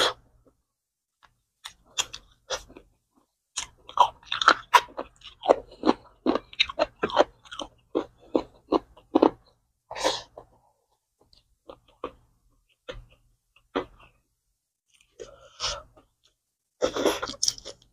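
A person chewing and eating with mouth noises, close to the microphone: a quick run of short smacks and bites, then a few scattered ones, with two longer noisy bursts near the end.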